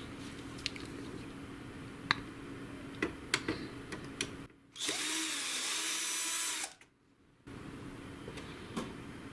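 Electric screwdriver running for about two seconds in the middle, backing out a screw from a printer's circuit board. Faint small clicks of handling come before and after it.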